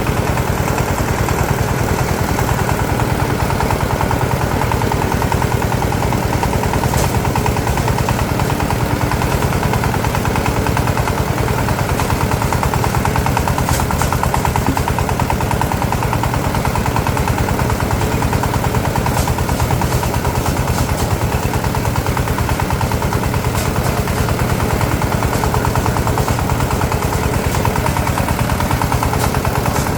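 A small engine running steadily at a constant speed, with a fast, even chugging.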